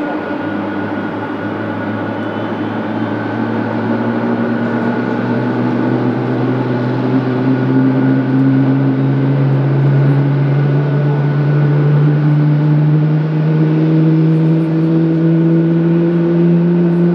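Boeing 777F's GE90 turbofan engines running and slowly spooling up, their low hum rising steadily in pitch and growing a little louder, with a steady high whine above.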